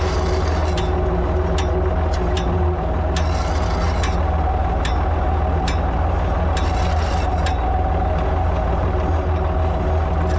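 Ford 3000 tractor engine running at a steady speed while it pulls a one-row planter, with sharp clicks about twice a second.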